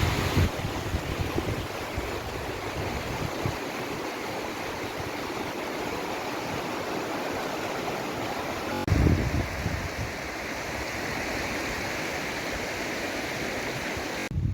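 Steady rush of a river flowing over rocks, with wind gusting on the microphone, most strongly about nine seconds in.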